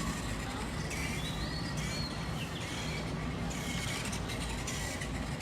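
Steady outdoor background noise with a low rumble, with short bird chirps over it.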